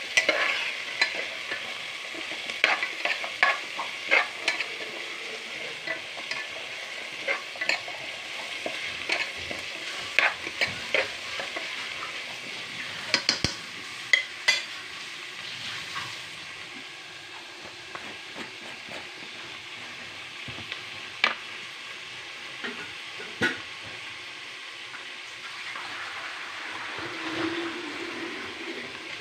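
Onions, green chillies, curry leaves and whole spices sizzling in hot oil in a metal pot while being stirred with a spoon, which scrapes and taps against the pot. The taps come often in the first half and more sparsely later, over a steady sizzle.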